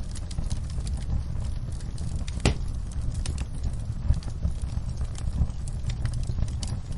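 Wood fire crackling, with scattered small snaps over a steady low rumble of the flames and one sharper pop about two and a half seconds in.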